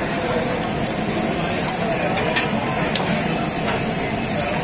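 Eggs frying in a wide pool of hot oil on a large flat griddle, sizzling steadily, with a few sharp clicks of a metal spatula against the griddle.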